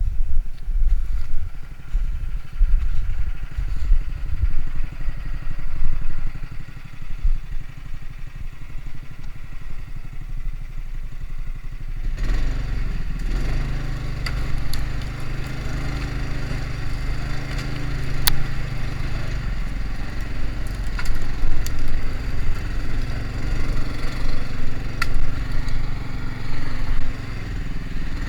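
Homemade karakat all-terrain vehicle's engine running over snow, with crunching and scattered sharp cracks. The first part is an uneven low rumble; from about halfway a steadier engine note sets in.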